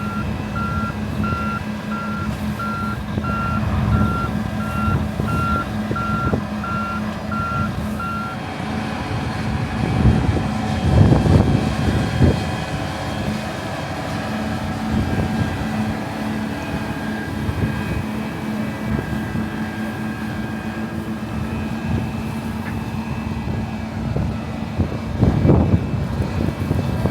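A heavy machine's reversing alarm beeping steadily, about one and a half beeps a second, over a running engine. The beeping stops about a third of the way in, and the engine runs on with louder surges twice.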